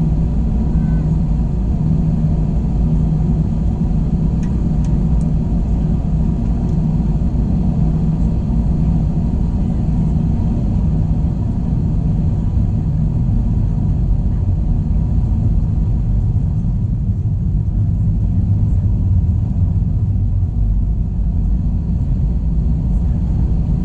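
Airbus A321 cabin noise: a steady, loud low rumble of the jet's engines and airflow, with a few faint steady hums riding on it.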